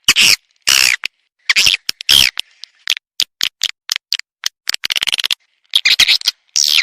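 Recorded swiftlet lure call: rapid chirping and twittering squeaks broken by fast trains of clicks, repeated in quick bursts. This is the kind of call played from swiftlet houses to attract the birds to roost and nest.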